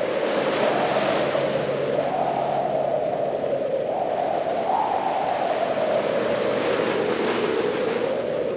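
Ocean waves washing on a beach, swelling about a second in and again near the end, over a steady drone that slowly wavers up and down in pitch.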